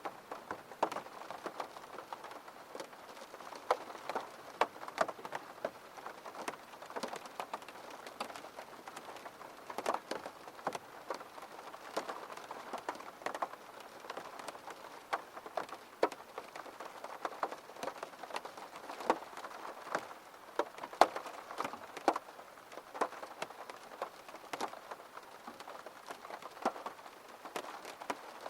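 Steady rain falling on a surface: an even hiss with many distinct, irregular drop hits ticking over it.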